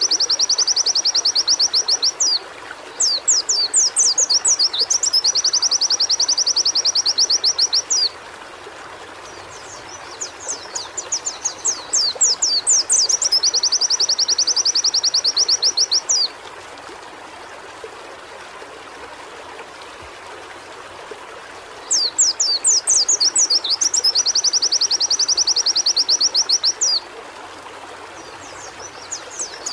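Pleci (white-eye) singing in repeated high bouts, each opening with a few quick sweeping notes and running into a fast, even trill lasting several seconds; there is a pause of about six seconds midway. A steady hiss lies beneath the song.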